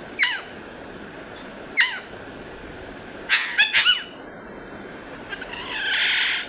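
Green parrot giving short squawks that fall in pitch: one at the start, one about two seconds in, and a quick run of four past three seconds, then a longer harsh, noisy screech near the end.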